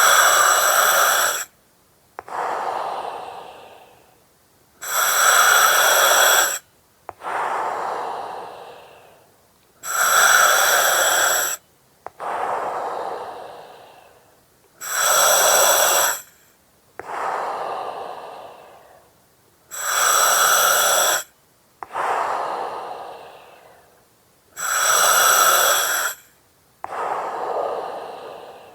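Slow, regular breathing through an oxygen mask with a regulator, six breaths: each cycle is a hiss of about a second and a half that starts and stops sharply, followed by a softer breath that fades away, then a short pause before the next.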